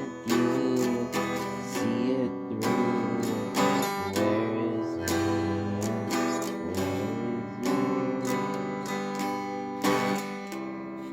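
Acoustic guitar strummed in a song, chords ringing between repeated strokes, with no singing.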